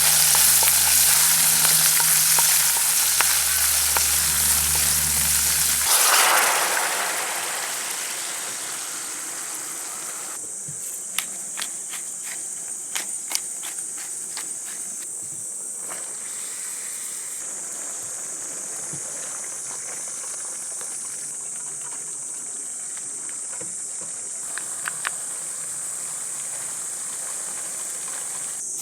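Food sizzling in a frying pan for the first several seconds; it swells briefly and then dies away. After that a steady high insect drone continues, with scattered light clicks and taps.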